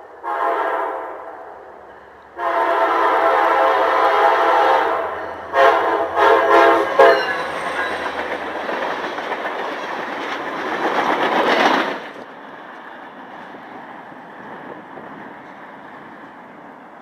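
Diesel locomotive's chime air horn: a short blast, a long blast, then a quick string of short blasts. It gives way to the loud rush and clatter of the train passing close by, which drops off suddenly about twelve seconds in to a quieter rumble of cars.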